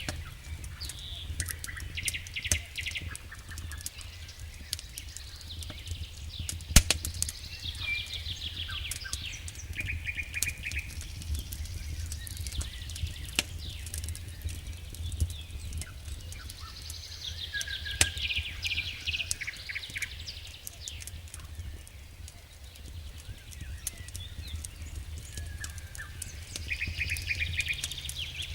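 Wood fire crackling in a fireplace: scattered sharp pops and snaps over a steady low rumble, with one loud pop about seven seconds in. Bursts of high chirping trills come and go throughout.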